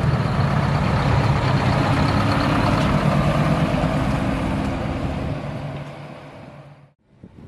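A heavy truck's engine running loudly with a steady low note, then fading away from about five seconds in as the truck moves off. The sound cuts off suddenly just before the end.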